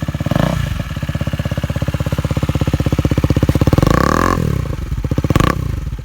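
KTM Duke 250's single-cylinder engine running loudly through a bare bend pipe with no silencer, pulsing evenly at low revs. It is blipped up briefly about three and a half seconds in and drops back.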